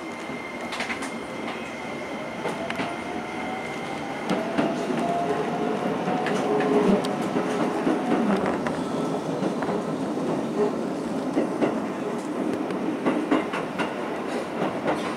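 A Keisei commuter train pulling out of a station, heard from inside the car: it grows steadily louder as it picks up speed. A faint motor whine rises slowly in pitch, and the wheels click over the rail joints.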